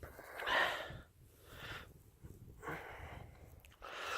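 A person breathing heavily close to the microphone: four soft, noisy breaths about a second apart.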